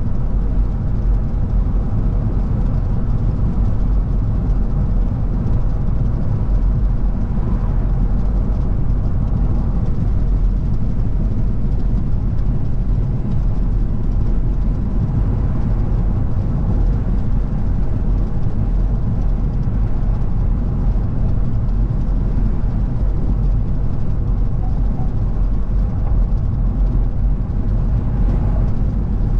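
Car driving at a steady pace: engine running under tyre and road noise, a steady low rumble with a faint even hum above it.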